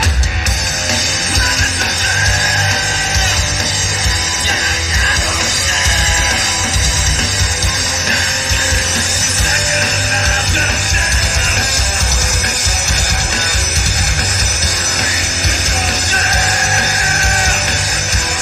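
Rock band playing live, loud and continuous: electric guitars and drums, with yelled singing over them at times.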